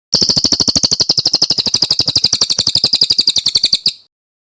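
Brown cililin songbird singing one long, rapid rolling trill of high notes, about thirteen a second, that cuts off abruptly near the end.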